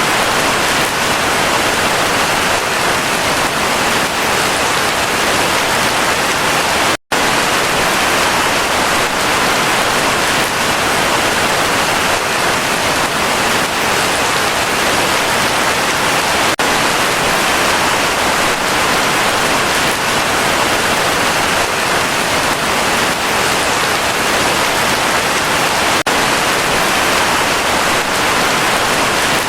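Heavy rain falling in a steady, dense hiss, with a split-second dropout about seven seconds in.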